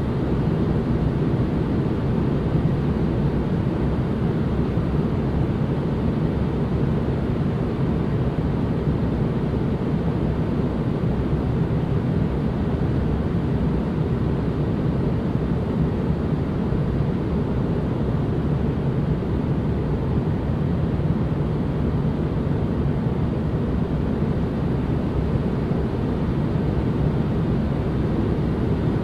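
Continuous white noise for relaxation: an even, unchanging rush that is heaviest in the deep range and has little treble, with no breaks or events.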